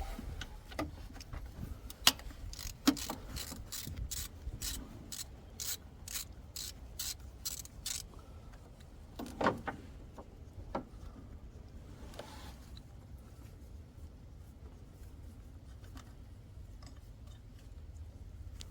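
Ratchet wrench clicking in a run of short back-and-forth strokes, about three clicks a second, as a 10mm bolt holding a bracket is loosened. A couple of metal knocks follow near the middle.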